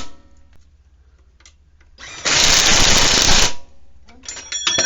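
Impact wrench hammering a bolt on the ATV's rear end in one burst of about a second and a half, about two seconds in, run with a chrome socket rather than an impact socket. Near the end come a few metallic clinks that ring briefly.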